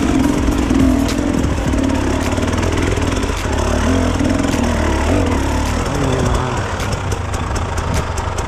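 Enduro dirt bike engine running, its pitch rising and falling with the throttle.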